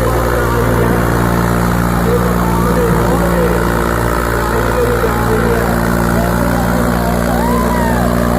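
Tractor diesel engines running steadily at a tractor tug-of-war, with short voice calls over them and a higher call near the end.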